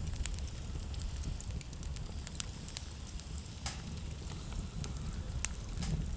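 Wood fire crackling in a fireplace: irregular sharp pops and snaps over a steady low rumble of the burning logs, with a few louder pops about halfway through and near the end.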